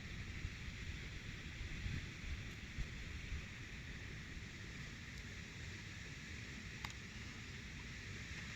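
Outdoor ambience: a steady hiss with an uneven low rumble of wind on the microphone, and one faint click near the end.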